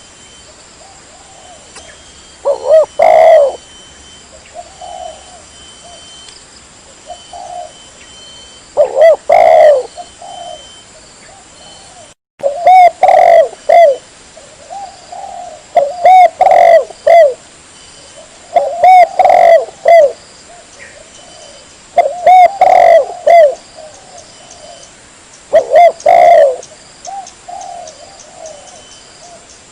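Spotted dove cooing: loud phrases of several coos each, repeated about every three seconds, with softer single coos between them.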